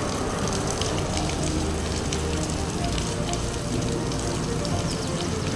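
Overflowing drain water pouring and splashing down like a waterfall, a steady rushing, splashing noise.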